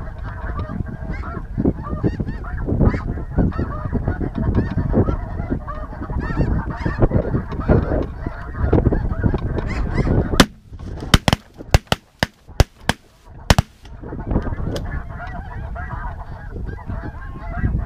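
A large flock of snow geese calling, a dense, overlapping clamor of honks. About ten seconds in, a rapid volley of about ten shotgun shots cuts in over roughly three seconds, and the calling starts up again afterwards.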